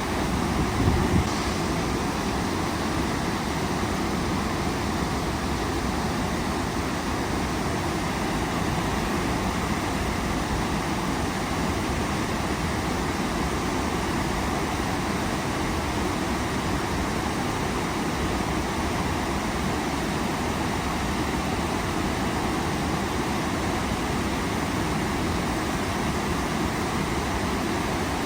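Waterfall rushing steadily, a dense even roar of falling water, with a brief louder low swell about a second in.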